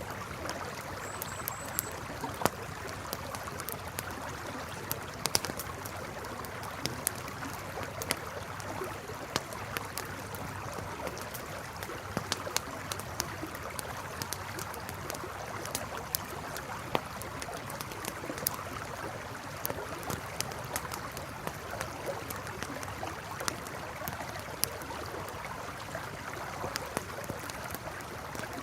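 A river flowing steadily, with a wood campfire crackling over it in sharp, irregular pops and snaps.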